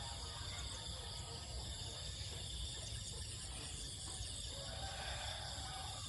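Steady chorus of insects trilling at several high pitches over a low, even rumble.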